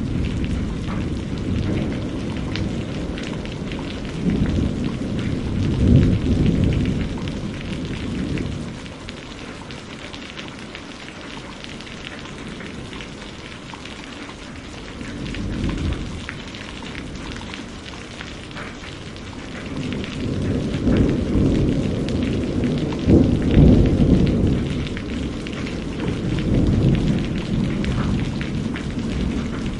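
Steady rain pattering, with thunder rolling in deep, drawn-out rumbles. One roll swells a few seconds in, a short one comes about halfway, and a longer spell of rumbling builds in the last third.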